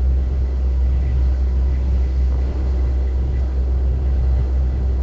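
Steady, deep rumble of a ferry's engine.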